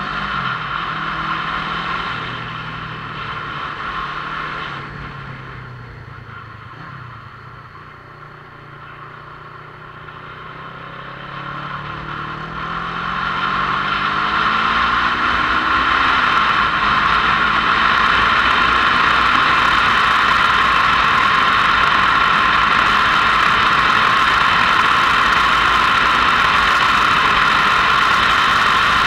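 Motorcycle engine running on the move, its pitch rising and falling with throttle and gear changes, then a loud steady rush that builds from a little before the middle and holds as the bike picks up speed.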